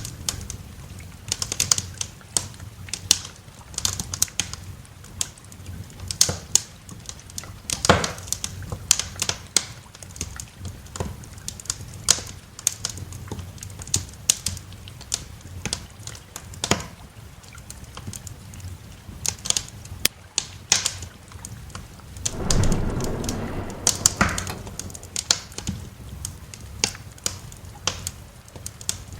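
Wood fire crackling in a fireplace: irregular sharp pops and snaps, several a second, over a low steady background. A louder, brief burst of noise comes about two-thirds of the way through.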